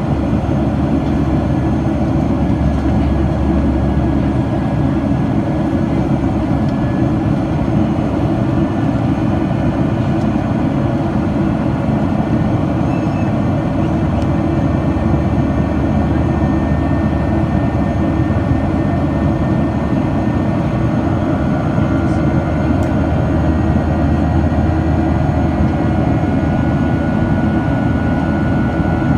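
Boeing 737-800's CFM56-7B jet engines and airflow heard as a steady, loud rumble inside the cabin, with a faint high whine coming in past the middle.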